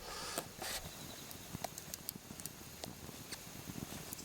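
Light scattered clicks and taps of eggplant and a knife being handled on a wooden cutting board, with a short rustle near the start.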